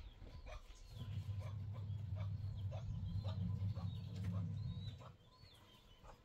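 Small birds chirping in the trees over a low rumble that comes in about a second in and fades out near five seconds, with soft ticks about twice a second.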